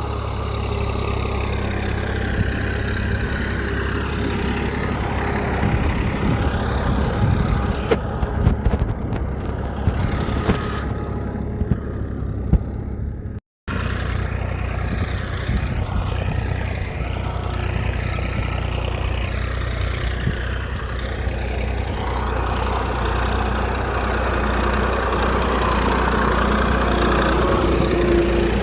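Engine running steadily at idle, with scattered clicks and knocks in the middle. The sound cuts out briefly about halfway through, then picks up again.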